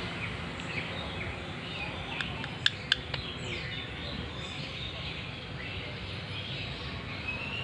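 Parrots giving short scattered chirps over a steady background hiss, with two sharp clicks a little before the middle.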